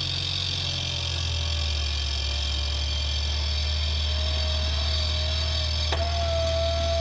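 Off-road 4x4's engine running steadily under load, with a thin whine that slowly rises in pitch. A single sharp click about six seconds in.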